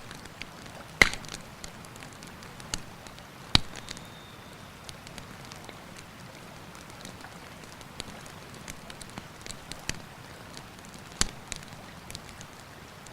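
Wood campfire crackling, with many small snaps and three loud sharp pops, about one, three and a half, and eleven seconds in. A river rushes steadily underneath.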